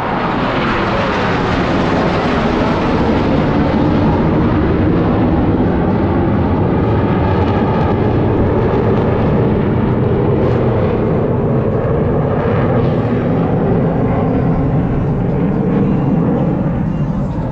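Jet roar from the Blue Angels' four-ship Diamond of F/A-18 Super Hornets after a high-speed pass, loud and steady, with a falling pitch sweep in the first couple of seconds as the jets go by.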